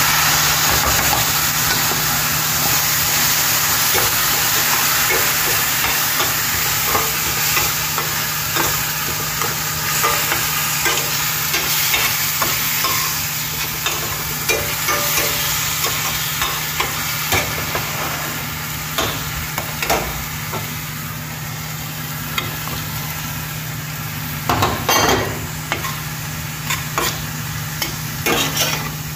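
Rice and sautéed vegetables sizzling in a stainless steel pot, with a metal spoon stirring and scraping against the pot. The sizzle starts suddenly at the outset and eases a little later on, while the spoon's scrapes and clicks come more often near the end.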